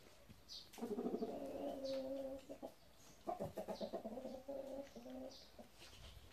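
Two low, drawn-out bird calls with a fast pulsing texture, each lasting about two seconds, starting about a second in and about three seconds in. Faint short high chirps repeat in the background.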